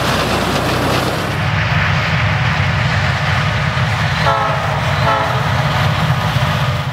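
Miniature ride-on train running with a steady low rumble, sounding its horn in two short toots about four and five seconds in.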